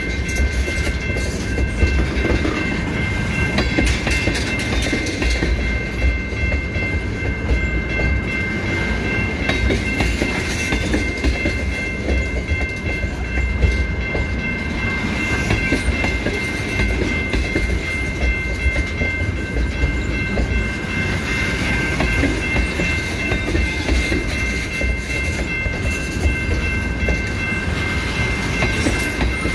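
Freight train of tank cars rolling past at close range: a steady rumble of the wheels with repeated clickety-clack over the rail joints. A steady high-pitched ringing tone runs over it throughout.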